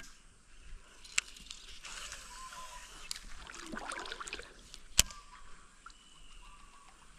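Quiet outdoor background with two sharp clicks, about a second in and about five seconds in, and a few faint short chirps.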